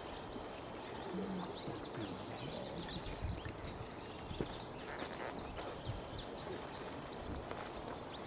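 Steady outdoor background noise with scattered thin, high chirps of small birds.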